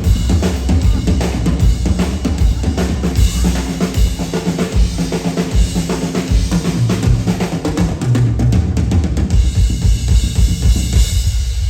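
Live stage percussion: drums struck in a fast, dense rhythm over a heavy bass drum, with sharp rim and snare hits. Near the end the hits thin out.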